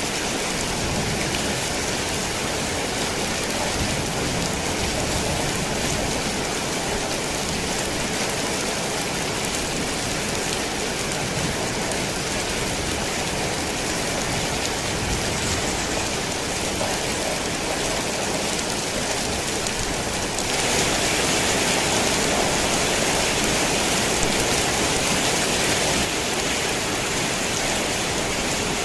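Heavy rain pouring steadily on a worn tin roof, an even wash of drumming. It gets louder and brighter for about five seconds some twenty seconds in, then drops back.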